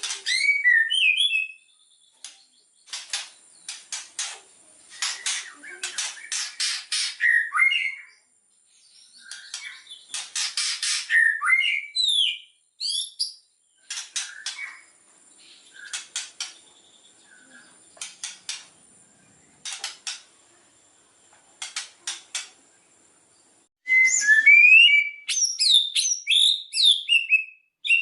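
White-rumped shama (murai batu) singing: phrases of rapid sharp rattling clicks mixed with short whistled notes, separated by brief pauses. A thin steady high tone runs underneath for most of the time.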